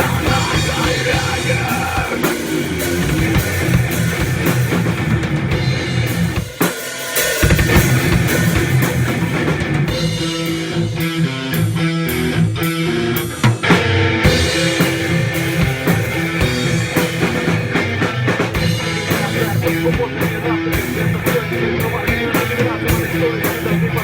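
Instrumental passage of a heavy metal song: drum kit with kick drum, distorted guitars and bass. There is a brief break about six and a half seconds in, and the band thins to a repeating riff for a few seconds around the middle.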